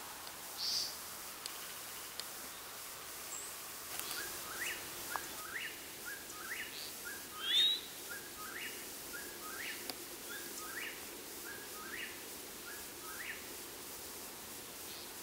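A night bird repeating a whistled call over and over, each call a short low note sweeping sharply upward, about one a second or a little faster. It starts about four seconds in and stops near the end, over a faint steady hum.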